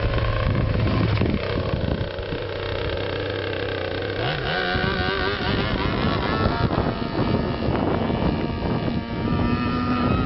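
Racing boat engines running on the water, one steady low motor tone rising in pitch about four to five seconds in, then higher motor tones holding over a rough rushing noise.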